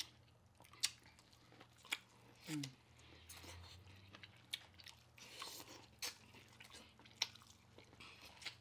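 Close-miked chewing and biting into seafood-boil corn on the cob, with about five sharp, crisp bite clicks spaced a second or more apart. A short falling "mmm" of enjoyment comes about two and a half seconds in.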